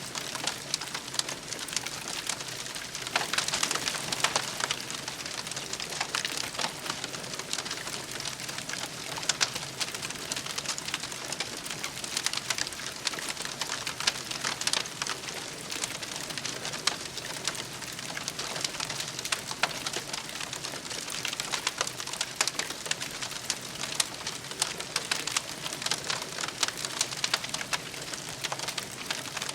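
Wood campfire crackling steadily, with dense small pops and snaps throughout.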